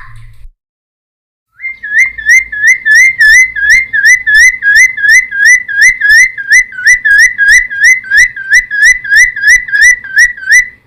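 Cucak timor singing: after a short silence, a long, rapid series of identical whistled notes, about three a second, each with a quick upward hook in pitch.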